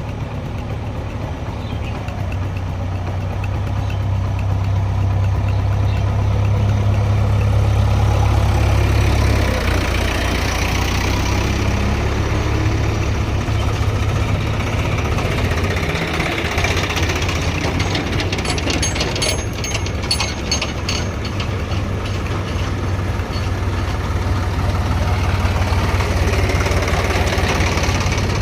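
Heavy diesel engine running steadily, strongest for the first ten seconds or so, then a little lower. A brief patch of faint clicking comes about two-thirds of the way through.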